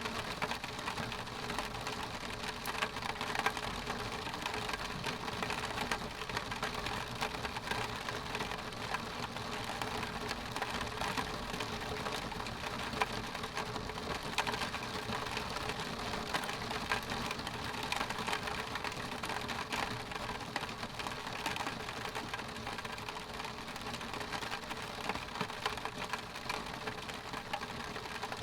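Steady rain falling on a window pane: a dense, even run of small drop taps on the glass over a constant hiss, with no let-up or thunder.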